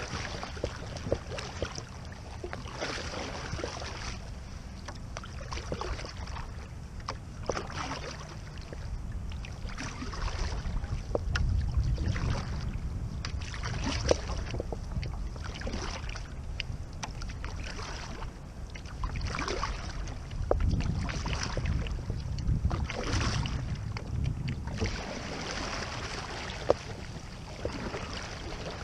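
Kayak paddle strokes splashing in the water, about one every second or so, as the kayak is turned. Wind rumbles on the microphone, swelling twice.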